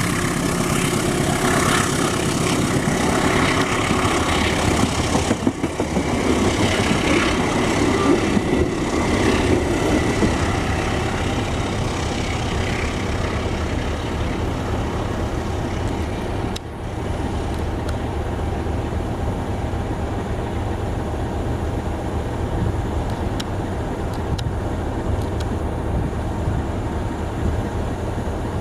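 Continuous rumble of a train running by, louder over the first ten seconds, then settling into a steady low hum.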